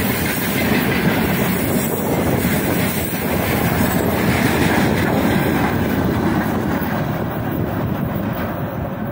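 Railway tank cars of a long freight train rolling past, wheels clattering on the rails. Near the end the sound thins and fades as the last cars move away.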